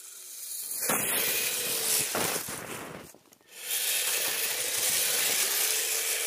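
Radio-controlled tracked snow vehicle driving through snow, a rushing hiss of churned snow with a faint steady motor whine. It comes in two long spells with a short break about three seconds in.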